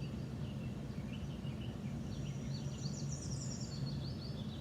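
A steady low hum, with faint, quickly warbling high chirps like bird twittering from about a second in until near the end.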